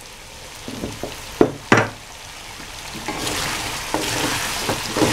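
Bone-in chicken pieces frying in oil in a steel karahi, sizzling, while a wooden spatula stirs and scrapes them against the pan. There are a couple of sharp knocks about a second and a half in, and the sizzle grows louder from about three seconds in as the meat is turned.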